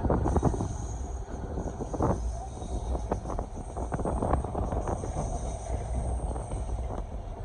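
Passenger train running on the track: a steady low rumble with irregular knocks and clatters from the wheels and coaches.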